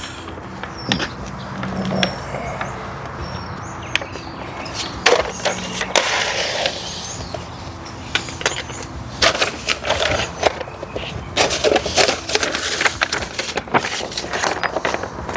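Irregular crackling, tapping and rustling of vinyl wrap film being handled and pressed onto car window trim for a chrome delete.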